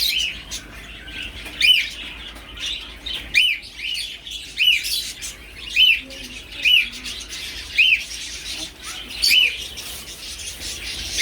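Small caged birds chirping: one bird repeats a short rising-and-falling chirp about once a second, over fainter, faster chirping from other birds.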